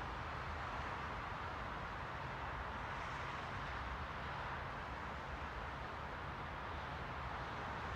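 Steady white-noise track: an even rushing hiss that stays level throughout, with most of its weight in the middle range and a soft low rumble beneath, and no distinct events.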